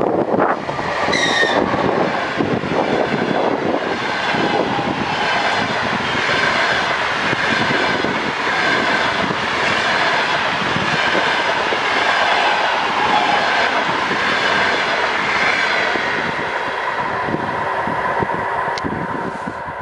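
Passenger train passing at speed, its wheels clattering steadily over the rail joints with a faint high whine over the top. A brief high tone sounds about a second in.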